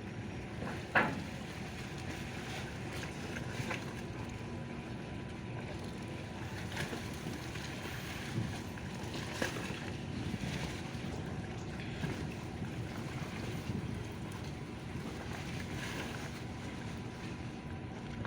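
Ferry harbour ambience: a steady low rumble of ship engines with wind on the microphone and lapping water, and a few short knocks, the sharpest about a second in.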